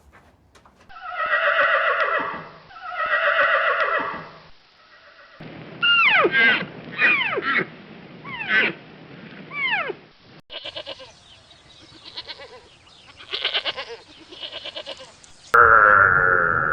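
A run of different farm animal calls cut one after another: two long goat-like bleats, then a series of short calls that fall sharply in pitch, then quick pulsed calls, and a cow's moo starting near the end.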